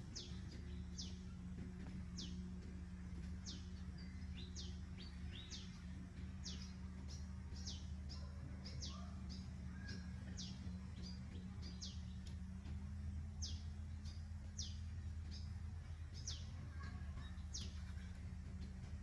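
Small birds chirping: short, high, downward-sweeping calls repeated about once a second, over a steady low hum.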